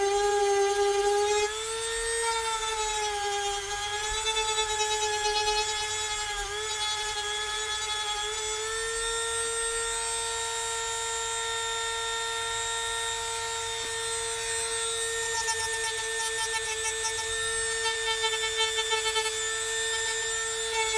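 WEN Dremel-style rotary tool with a diamond cutting disc, whining at high speed as it grinds down high spots of dried silicone. The pitch dips and wavers as the disc bites during the first several seconds, then holds steady.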